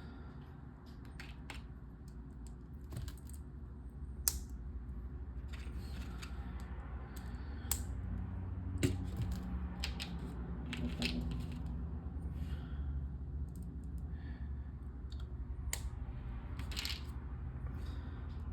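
Small plastic LEGO pieces clicking and clattering as they are handled and snapped together: scattered sharp clicks, a couple of dozen, with a steady low hum underneath.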